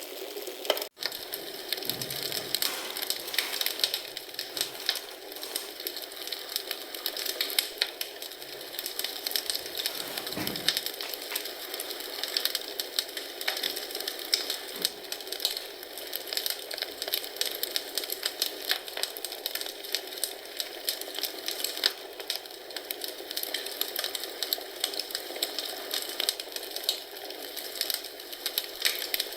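Wood fire in a fireplace crackling and popping, with dense irregular snaps of burning logs over a steady hiss of flames. The sound cuts out for an instant about a second in.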